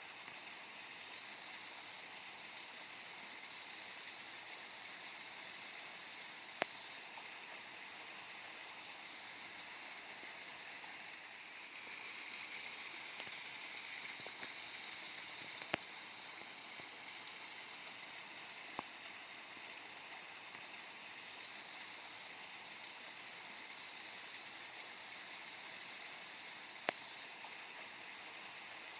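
Waterfall: a steady rush of falling water, with a few sharp clicks now and then.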